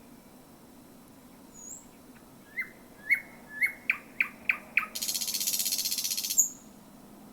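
Thrush nightingale singing one song phrase: a few short whistled notes, then a quick run of about five sharp clicking notes, then a loud, fast rattle lasting about a second and a half that ends in a short high note.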